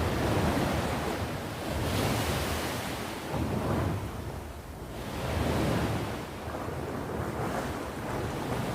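Sea waves breaking and washing on the shore, the surf swelling and ebbing, with wind buffeting the microphone.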